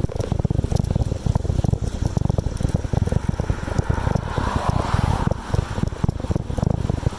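Wind buffeting the microphone on a moving bicycle, with a constant patter of rattling clicks from the ride. A hissing swell of noise rises and fades about four to five seconds in.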